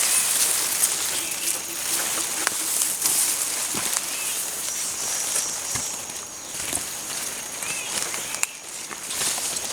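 Jungle ambience: a steady high-pitched insect drone with several short bird chirps and scattered clicks and rustles.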